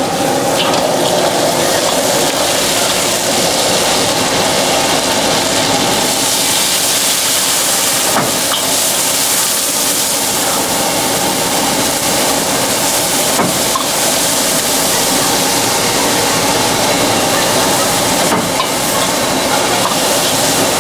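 Stir-frying at a street-food stall: a loud, steady hiss of a high gas flame and sizzling under a wok, with a few sharp knocks, about one every five seconds.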